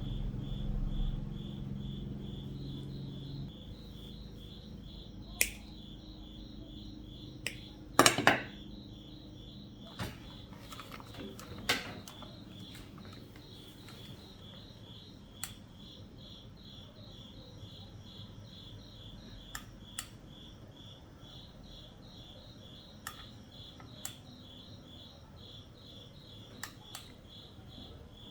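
A high-pitched chirp pulsing steadily about three times a second, with scattered sharp clicks and knocks, the loudest a double knock about eight seconds in. A low hum fades out after the first few seconds.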